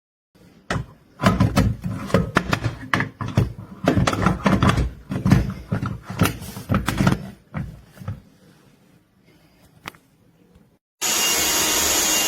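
Several seconds of irregular knocks and clattering from handling, then near the end a Black+Decker Dustbuster cordless handheld vacuum switches on abruptly and runs with a steady whine and hiss.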